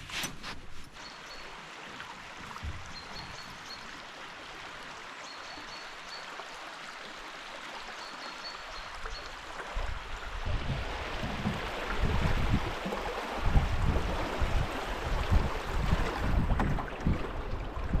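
Steady rush of flowing water, with a few knocks at the start. In the second half, irregular low gusts of wind buffet the microphone.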